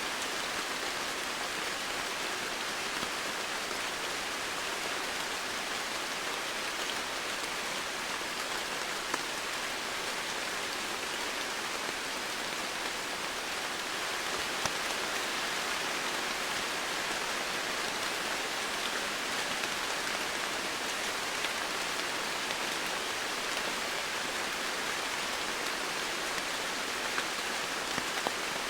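Steady rainfall with a dense patter of drops, an even hiss with a few slightly louder drop ticks now and then.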